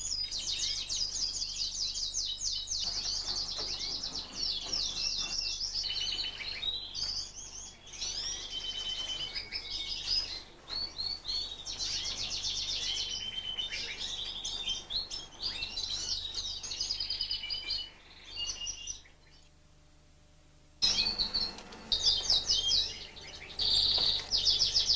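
Fife fancy canaries singing: fast, high-pitched rolling trills and chirps, several phrases overlapping. The song breaks off for about two seconds near the end, then starts again louder.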